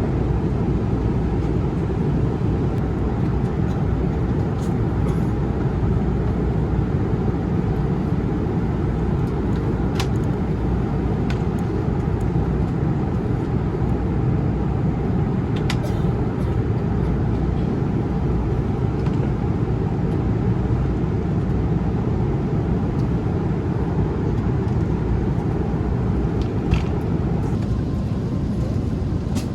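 Steady low roar inside an Airbus A350-900 cabin in cruise, engine and airflow noise, with a few faint clicks.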